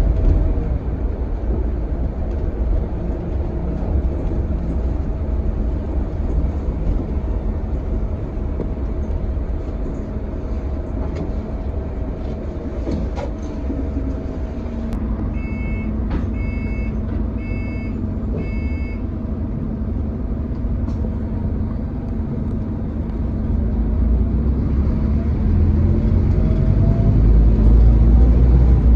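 Scania K320HB bus running, its engine note settling into a steady low tone about halfway through. Four short electronic beeps sound in a row, and near the end the engine grows louder.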